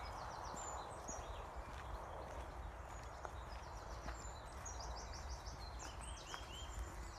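Small songbirds singing: quick series of high chirps and short trills, several overlapping, over a low steady rumble.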